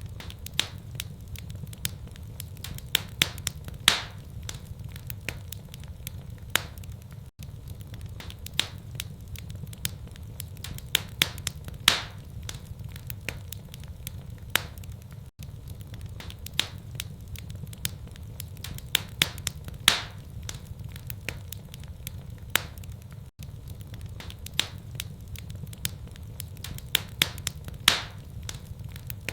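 Wood fire in a fireplace crackling and popping, with sharp irregular snaps over a steady low rumble. The same stretch of crackles repeats about every eight seconds, as a loop does.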